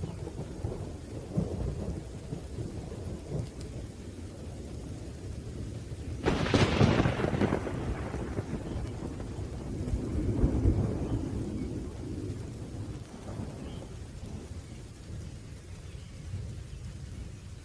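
Thunderstorm with steady rain and continuous low thunder rumble; about six seconds in a sharp, close thunderclap cracks and rolls away over a few seconds, and another roll of thunder swells a few seconds later.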